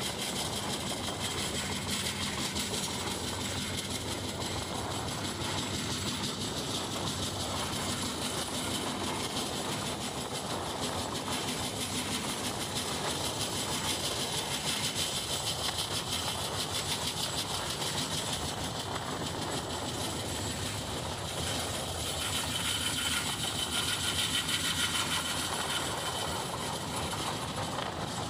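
Express passenger train running at speed, heard from aboard a coach: a steady, even rumble of wheels on rails.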